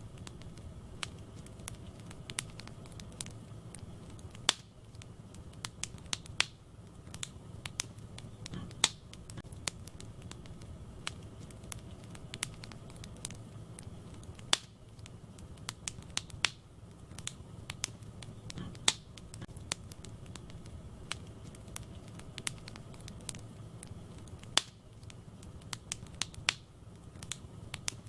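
Wood fire burning in a fireplace: irregular sharp crackles and pops, a few loud snaps among many small ones, over a soft low rumble of the flames.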